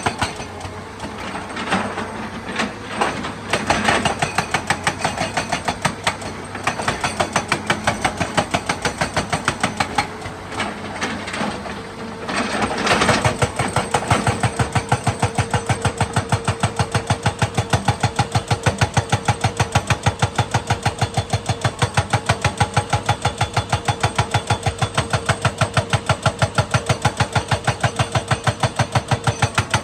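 Excavator running under work, its engine and machinery making a mixed clatter that settles about twelve seconds in into a fast, even rhythmic knocking over a steady hum.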